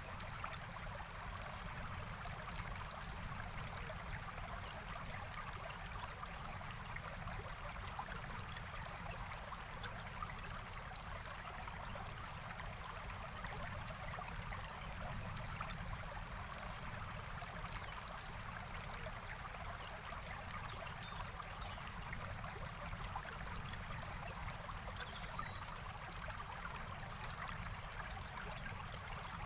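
Forest stream flowing with a steady rushing, trickling sound, with a few faint high bird chirps now and then.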